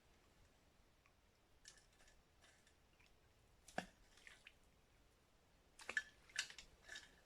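Near silence broken by a handful of faint wet squelches and clicks, the loudest about four seconds in and a cluster of three near the end.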